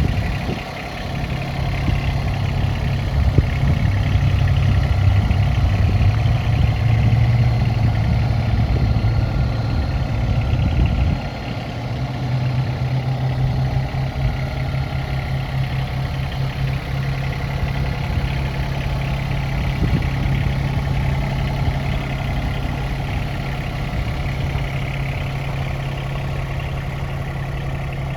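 Yanmar SA223 compact tractor's diesel engine running. It is louder and rougher for roughly the first ten seconds, then at about eleven seconds it drops to a steady idle.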